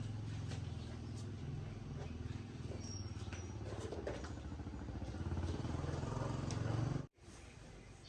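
Engine running steadily with a low hum and a few light clicks over it, cut off abruptly about seven seconds in.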